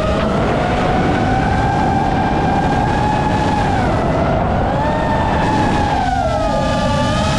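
Motors and propellers of a 7-inch FPV quadcopter in flight: a loud whine over a rush of prop wash and wind. The pitch rises and falls with the throttle, dips about four seconds in, and splits into several tones near the end.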